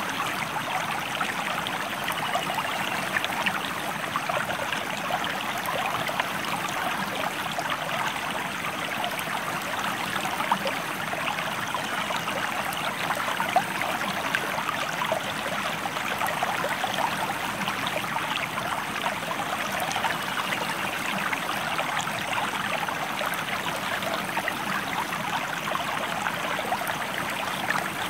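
River water flowing steadily, an even rush with many small splashes and trickles.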